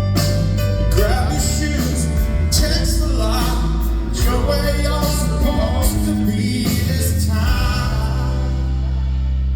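Rock band playing live at a soundcheck: a male lead vocal sings over bass, drums and keyboards. About eight seconds in the singing stops, leaving a held chord.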